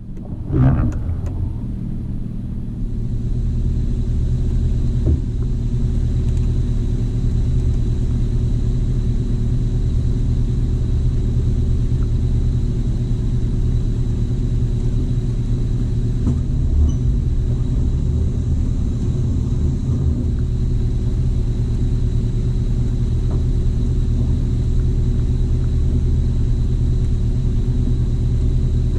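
Jeep Wrangler TJ engine running steadily as it drives at low speed, a continuous low drone with a faint steady high whine above it.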